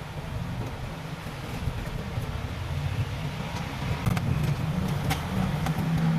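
Steady low rumbling background noise, getting a little louder toward the end, with a few faint light clicks.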